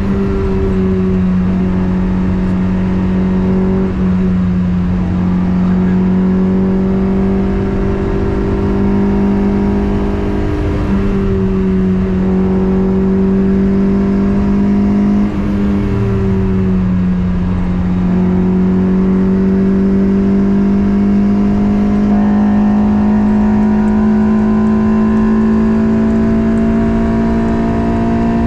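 Toyota 2ZZ-GE inline-four engine in a Toyota MR2 running hard at high revs, its pitch climbing slowly and dropping briefly a few times.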